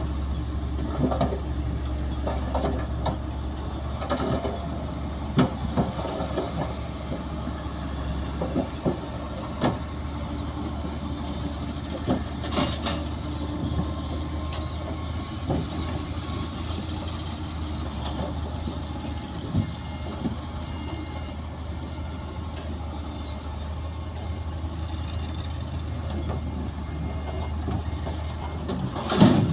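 Heavy diesel earthmoving machinery running steadily, a low engine hum, with scattered clanks and knocks and one louder knock near the end.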